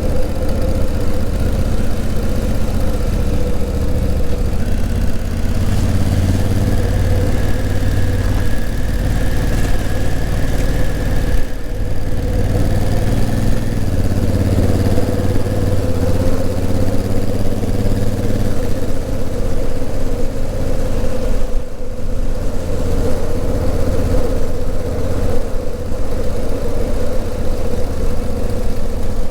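Honda CRF1000L Africa Twin's 998 cc parallel-twin engine running steadily on the move, its note shifting between steady pitches, with two brief dips about a third and two-thirds of the way in.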